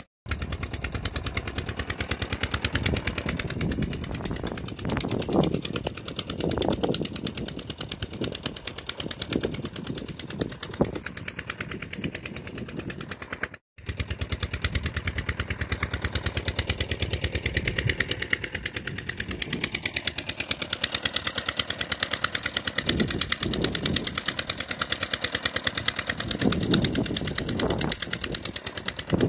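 Diesel engine driving a borewell water pump, running steadily with a rapid, even knocking beat. The sound drops out for an instant twice.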